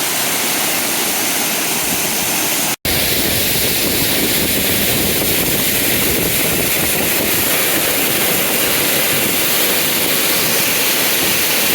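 Strong waterfall, water rushing steadily over rocks. The sound cuts out for a split second about three seconds in.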